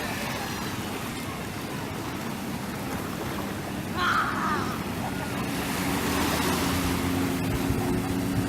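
Watercraft engine running over the wash of waves and wind; its steady hum grows stronger about five seconds in. A brief higher-pitched sound about four seconds in is the loudest moment.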